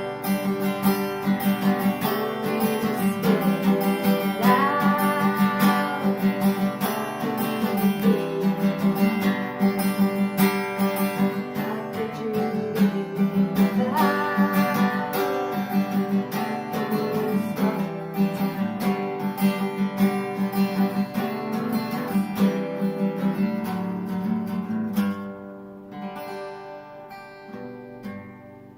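Acoustic guitar strummed steadily as a song's instrumental ending; about 25 seconds in the strumming stops and a last chord rings and fades away.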